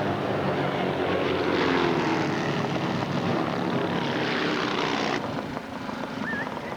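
Racing motorcycle engines running hard as they pass on the track, their pitch bending as they go by. The sound drops away about five seconds in.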